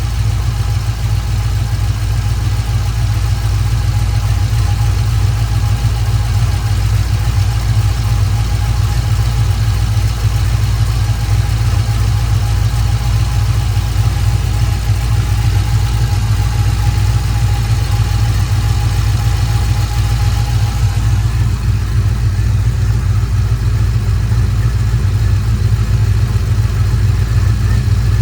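A 2000 Camaro's LS-family V8 idling steadily, an engine with blow-by that the owner puts down to a piston ring that has lost tension. A faint thin whine rides over the idle and drops away about three-quarters of the way through.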